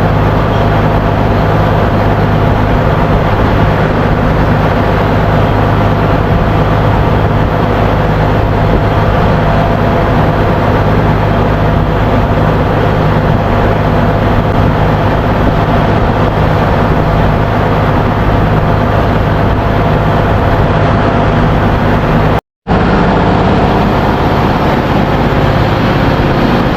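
Loud, steady drone of ship's engine-room machinery, with a constant low hum and a few steady higher tones. The sound cuts out completely for a split second near the end.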